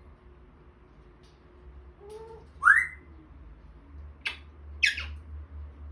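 African grey parrot whistling and calling: a low rising note, then a loud upward-gliding whistle about halfway through, followed by two short sharp calls.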